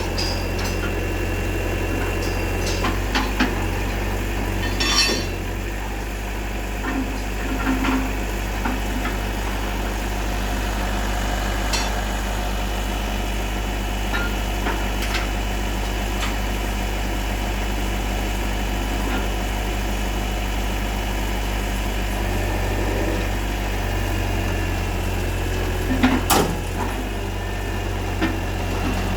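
Engine of a hydraulic concrete pile-pressing rig running steadily, with a few sharp metallic knocks.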